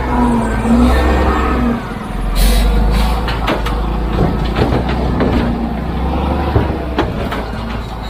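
Heavy vehicle engine running steadily, with a short burst of air hiss about two and a half seconds in, followed by scattered knocks and clanks.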